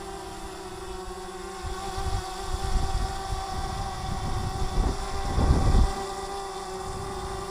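DJI Mavic Mini quadcopter hovering, its propellers giving a steady whine, while strong gusts of wind buffet the microphone, growing from about two seconds in and loudest around five to six seconds before easing.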